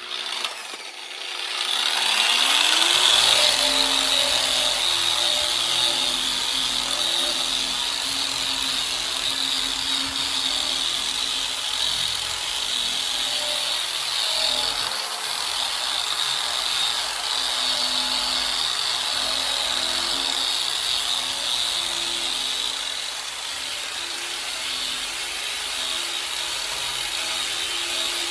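Electric power tool with a wire wheel spinning up over about two seconds, then running steadily against the bicycle frame to strip it.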